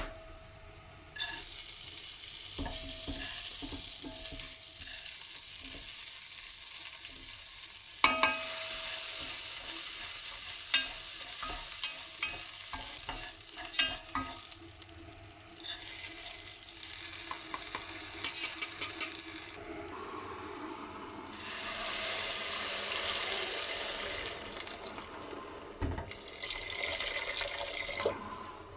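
Food sizzling in a frying pan while it is stirred, with short clinks of the spoon against the pan.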